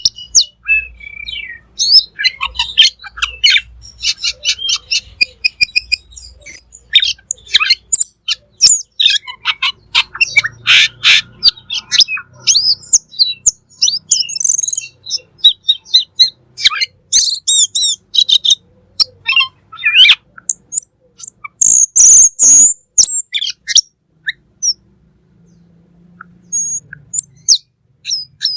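A cucak keling singing in full voice: a dense run of varied chirps, quick whistled notes and squawks, with a loud harsh rasping call about three-quarters of the way through and a short lull after it.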